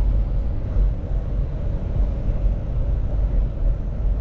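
Wind buffeting the microphone while riding a bicycle: a steady, fluctuating low rumble.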